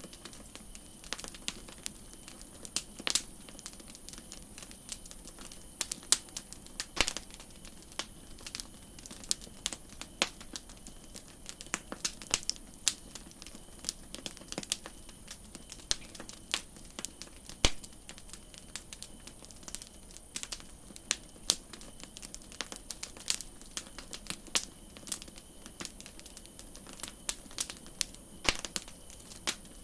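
Wood campfire crackling, with irregular sharp snaps and pops, several a second, over a steady high hiss.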